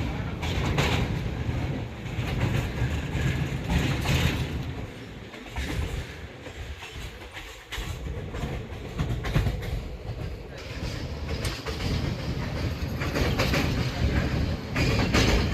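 Passenger train running on the rails: a steady rumble with the clickety-clack of wheels over rail joints, easing off for a few seconds around the middle.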